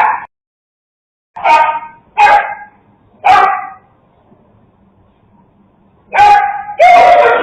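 Dogs barking at each other while squabbling over food. There are sharp barks in quick succession, a pause of about two seconds, then two more barks near the end, the last one drawn out.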